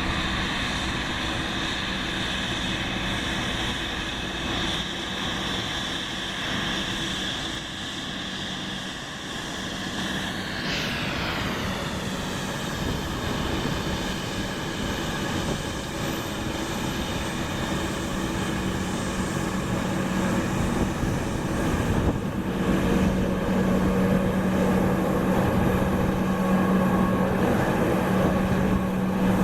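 Jet airliner engines running with a steady whine; about ten seconds in the whine's pitch drops sharply, and the sound grows louder over the last third, with a strong low hum.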